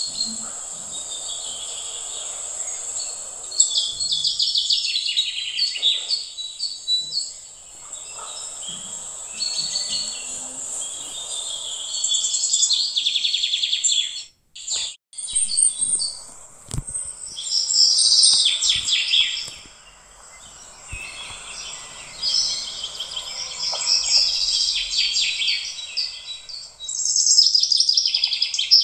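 Dense chirping of birds over a steady high hiss and a faint low murmur, broken by a brief dropout about halfway through.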